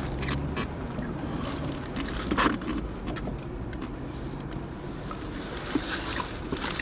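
Steady low hum of the car's cabin, with small clicks and rustles of someone chewing and handling a wrapped chicken shawarma.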